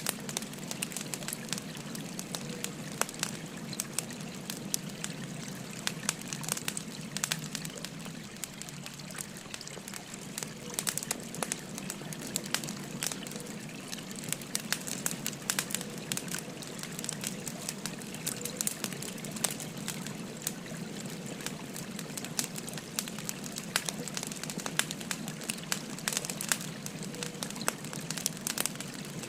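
Firewood burning with frequent sharp crackles and pops over the steady rush of a flowing river.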